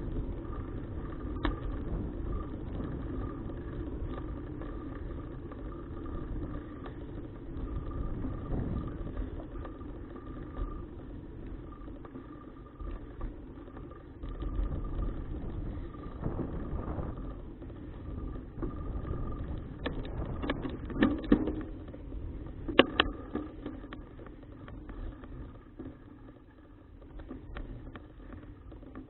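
An engine running steadily with a low rumble and a steady hum, plus a few sharp clicks about 20 to 23 seconds in.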